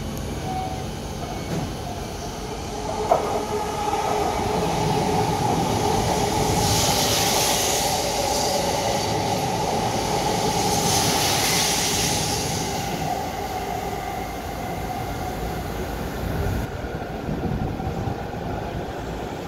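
E655-series train passing through a station platform at speed: a steady rolling rumble with a whine, which builds about three seconds in, holds for some ten seconds and then fades. A brief sharp sound, the loudest moment, comes as it arrives.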